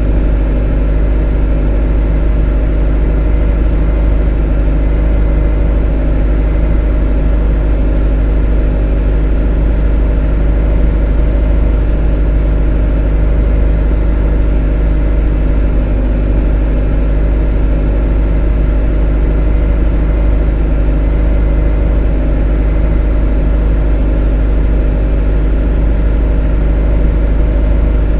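A motor running steadily: a constant low rumble with an unchanging hum of many tones above it.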